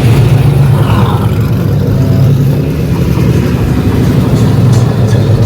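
A car engine running close by, a loud, steady low rumble.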